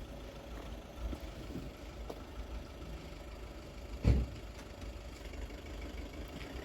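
An engine idling with a steady low rumble, and a single sharp thump about four seconds in.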